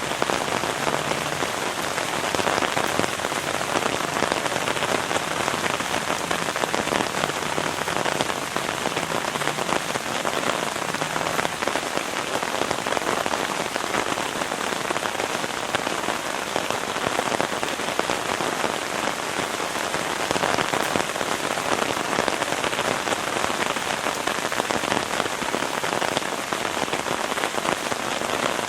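Heavy rain falling steadily, an even, dense hiss that does not let up.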